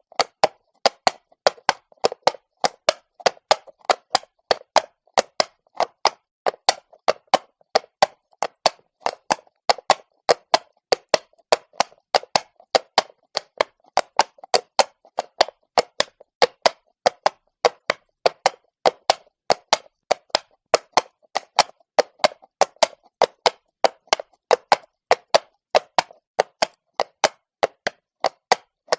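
Horse's hooves striking stone while walking: sharp, hard clops in a steady, even rhythm of about three a second.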